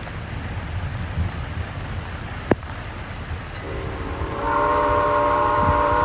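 Steady rain falling, with a single sharp click about two and a half seconds in. A little past halfway, steam locomotive No. 89's steam whistle starts a long chord, which grows fuller with higher tones about a second later and holds.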